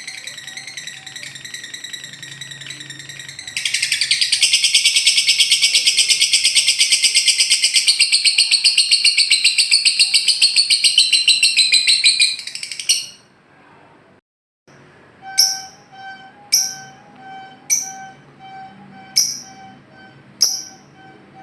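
Lovebird calling: a thin, rapidly pulsed call, then about four seconds in a loud, very fast chattering trill (the lovebird's 'ngekek') held for about nine seconds. After a short pause come six sharp falling chirps about a second apart.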